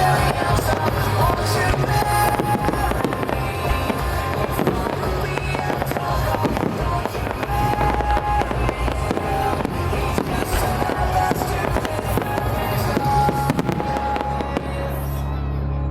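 Fireworks bursting and crackling in quick succession over music from loudspeakers. Both die away near the end, leaving a low steady hum.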